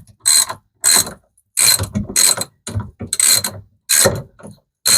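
Hand socket ratchet with an extension, its pawl clicking in short back-and-forth strokes, about two to three a second, as it drives a long screw home.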